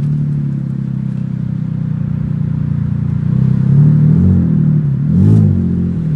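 Infiniti G35 with a loud exhaust, its V6 engine running at low speed; the engine note rises and falls in short swells a few times in the second half.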